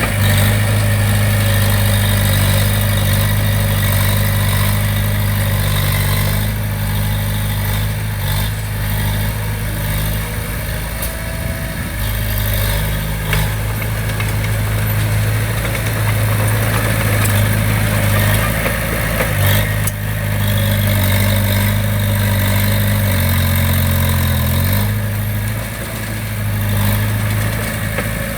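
Diesel engine of heavy construction machinery running steadily at a low, even speed. Its pitch shifts a few times, rising briefly about three-quarters of the way through, with a few faint knocks.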